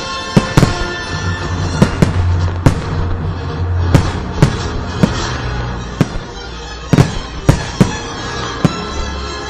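Fireworks going off in a rapid, irregular string of sharp bangs, some with a short crackling tail, over music with a steady low bass.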